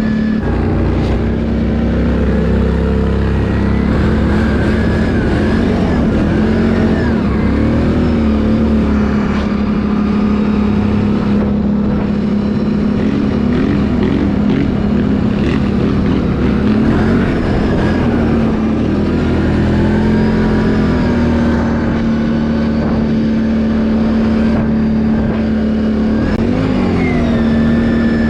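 Can-Am ATV engine running under way, its revs rising and falling again and again as the throttle is worked.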